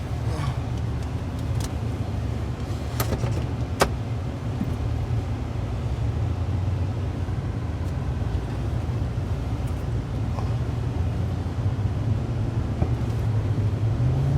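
4x4 vehicle driving on snowy roads: a steady low engine and road rumble, with a couple of sharp clicks about three and four seconds in.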